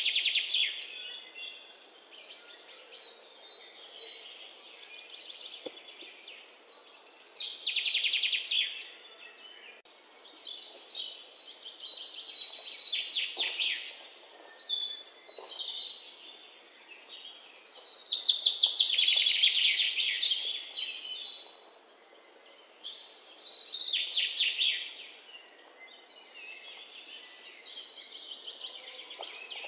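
Songbird singing in phrases of rapid, high chirps, repeated every few seconds, with the longest and loudest phrase about two-thirds of the way through, over a faint steady hiss.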